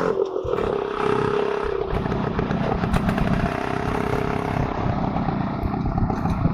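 Motorcycle engine running steadily, with rattly mechanical noise underneath; the engine note drops a little right at the start.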